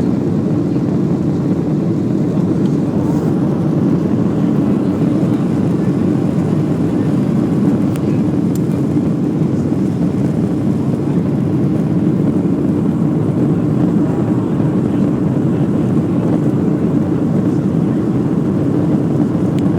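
Steady, unbroken drone of an airliner's engines and rushing air heard from inside the passenger cabin, just after takeoff.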